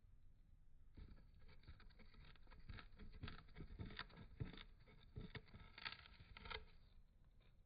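Budgerigar nibbling a cardboard toilet paper tube with its beak: a faint, quick run of small clicks and scratchy scrapes, starting about a second in and stopping near the end.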